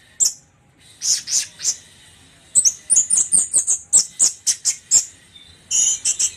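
Orange-headed thrush (anis merah) singing in the rapid staccato 'trotol' style: short, sharp, high notes, a few spaced ones, then a fast run of about five a second and a brief dense burst near the end.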